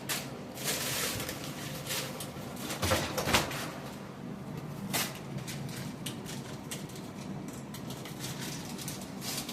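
A few scattered knocks and clatters of kitchen handling over a steady background hiss.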